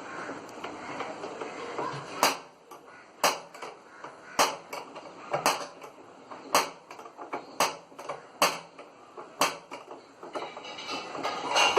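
Eight sharp clicks at a steady pace of about one a second, from hand-tool work on a front-load washing machine's plastic drum while its screws are fastened. A rustling, scraping sound comes before them.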